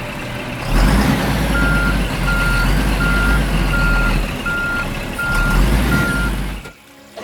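A truck's reversing alarm beeps on one steady pitch, about eight evenly spaced beeps, over a heavy engine rumble. Both cut off suddenly near the end.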